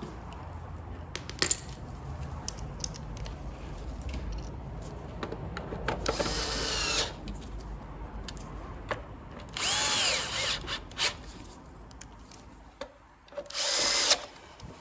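Cordless drill-driver run in three short bursts, its whine rising and falling each time, running in the screws of the engine's timing-belt cover, with light clicks of tools and parts between the bursts.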